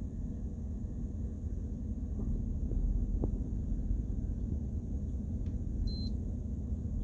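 Steady low rumble inside a car cabin, with a couple of faint taps about three seconds in and a brief high electronic beep near the end.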